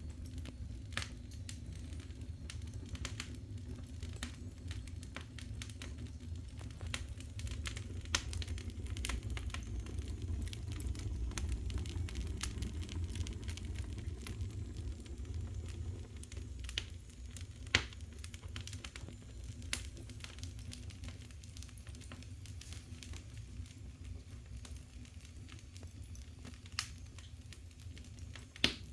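Wood fire burning hard in the open firebox of a wood-fired boiler: a steady low rumble with scattered crackles and a few louder pops.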